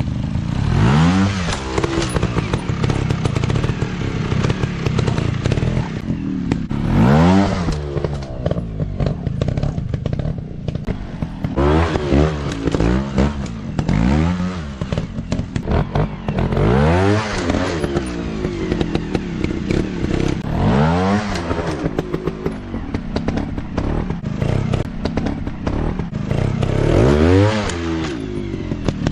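Off-road trail motorcycle engines running, the throttle opened and closed again and again so the pitch repeatedly rises and falls over a steady low running note, with scattered knocks and clatter.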